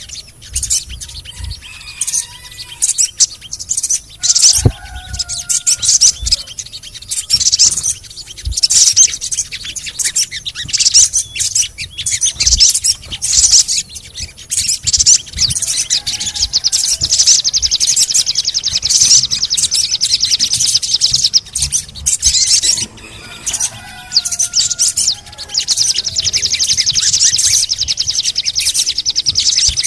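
Sogon bird singing: a fast run of sharp, high chirps, then two long, rapid, even trills in the second half.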